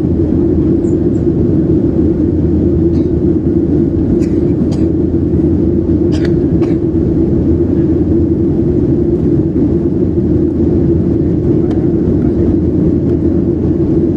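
Steady low drone inside an airliner cabin in flight: engine and airflow noise, with a few faint short ticks.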